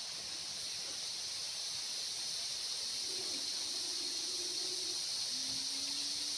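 Steady high-pitched chorus of insects. From about three seconds in come faint low hooting calls, each held for a second or two.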